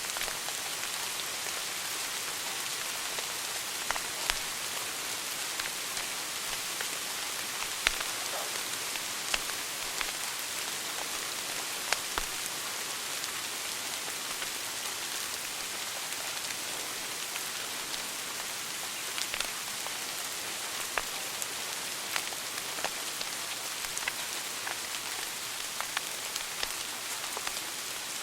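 Wood fire burning in a fireplace: a steady hiss with sharp crackles and pops at irregular intervals, the loudest about 8 and 12 seconds in.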